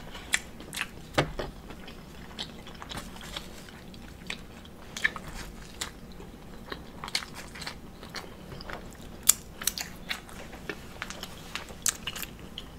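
A person biting into and chewing a waffle, with irregular short mouth clicks and smacks.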